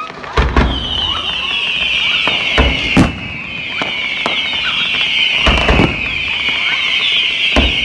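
Fireworks display: loud firework bangs in close pairs, about half a second in, around three seconds and around five and a half seconds, with another bang near the end. Underneath runs a continuous high crackle that slowly drops in pitch.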